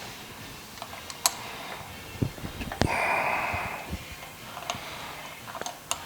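Milling machine drilling slowly into a flame-hardened crankshaft to take Mallory heavy-metal balance inserts, with scattered sharp clicks and a brief hiss about three seconds in.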